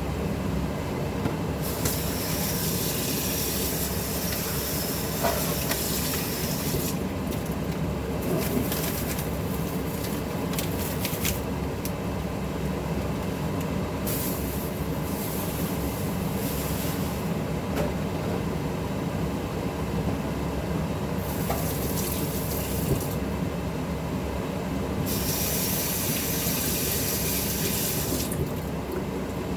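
Kitchen cooking sounds: a steady low hum, with several stretches of hissing a few seconds long that start and stop sharply.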